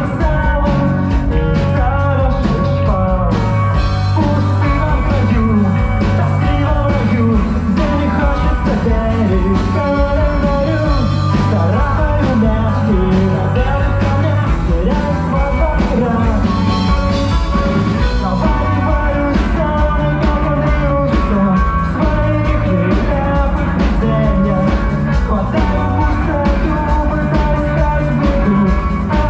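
Rock band playing a song live: full band with drums and bass, loud and continuous.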